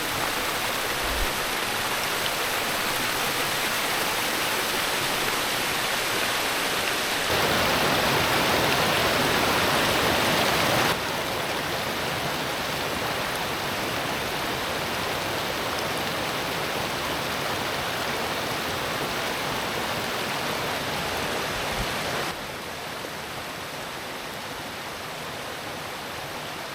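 Steady sound of a flowing forest creek. The level jumps up about seven seconds in, drops back about eleven seconds in, and drops again about twenty-two seconds in, as the shots change.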